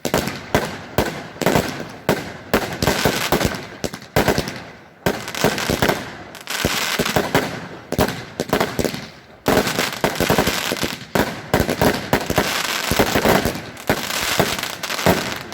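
Celtic consumer fireworks going off in a rapid string of sharp bangs and crackles, with a few short lulls between volleys.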